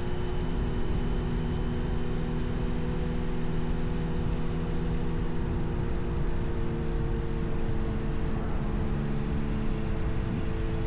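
Kawasaki Z H2's supercharged inline-four engine running at steady revs on the move, over a constant rush of wind and road noise. The engine note shifts briefly near the end.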